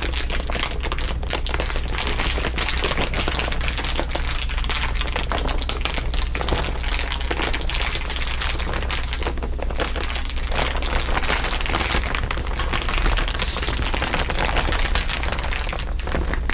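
Dense, continuous crinkling of crinkly material, several layers of crackle overlaid into an unbroken rustle, over a steady low hum.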